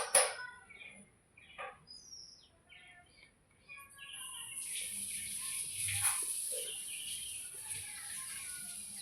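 Scattered bird chirps, then a steady hiss that starts about four seconds in and carries on, with a couple of sharp knocks at the very start.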